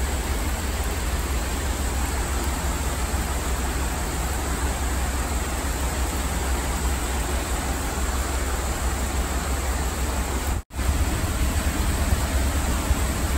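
Heavy rain pouring down on pavement and shelter canopies: a steady, dense hiss with a deep rumble underneath. The sound cuts out for an instant about ten and a half seconds in.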